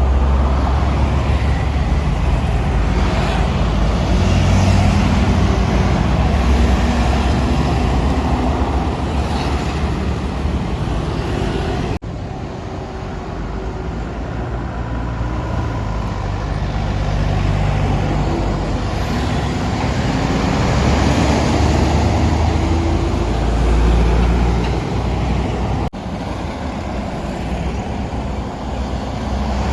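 Heavy road traffic with large diesel trucks running and passing: a low engine drone that rises and falls in pitch over tyre and road noise. The sound changes abruptly twice, as at cuts.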